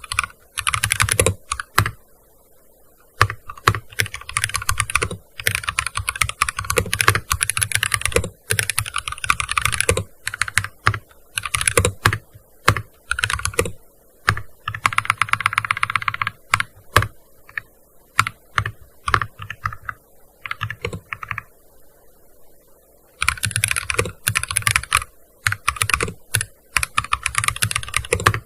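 Typing on a gaming keyboard: bursts of rapid keystrokes broken by short pauses, with only scattered single keystrokes for several seconds about two-thirds of the way through.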